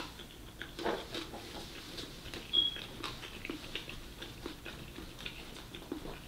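Close-miked chewing, with small clicks and scrapes of a plastic spoon scooping fried rice in a plastic takeout tray. A brief high squeak about two and a half seconds in is the loudest sound.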